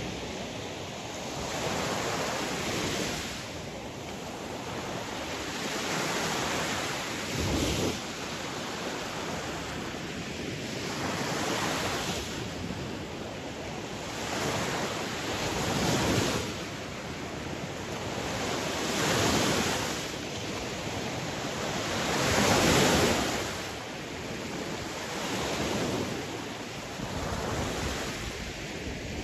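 Sea waves breaking and washing in, over a steady rush of surf. The swells rise and fall every few seconds, and the largest break comes about three quarters of the way through.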